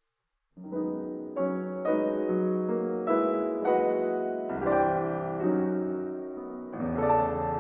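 Solo piano introduction, starting about half a second in: a series of chords struck roughly every half second, each ringing on, with deeper bass notes coming in near the middle and again near the end.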